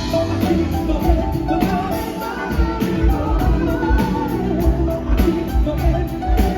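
Live rock band playing with drums, guitar and a sung melody, as heard through an audience member's recording.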